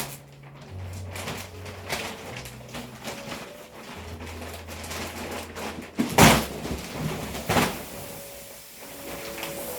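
A few knocks and thuds, the loudest about six seconds in and another about a second and a half later, over a faint low hum that comes and goes.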